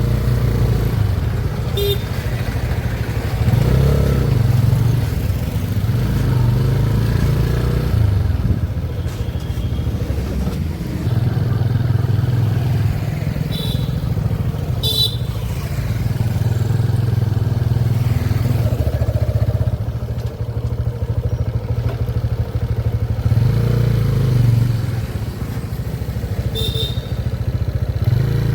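A motor vehicle's engine running steadily with road noise, swelling and easing every few seconds. A few brief high-pitched sounds come near the middle and again near the end.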